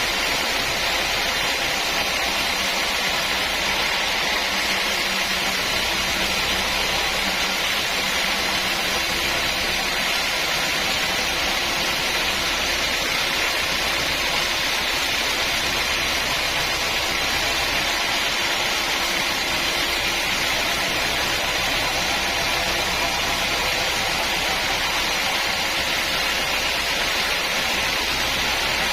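Sawmill machinery running with a steady, unbroken mechanical hiss and hum, no starts or stops.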